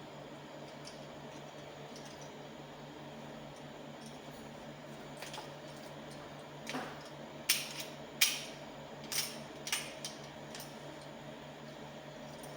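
Small parts being handled, making about half a dozen sharp clicks and light clinks in the second half over a steady low hum.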